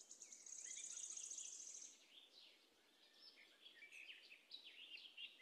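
Faint birdsong: a fast, high trill for the first two seconds, then many short chirps and quick whistled notes.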